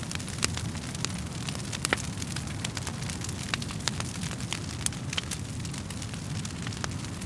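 Wood fire crackling: sharp, irregular pops and snaps from the burning logs over a steady low rumble of the flames.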